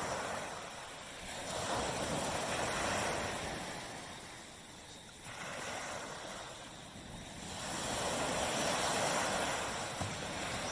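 Small waves breaking and washing up a beach. The surf swells and eases, building about two seconds in, dying back midway, and building again near the end.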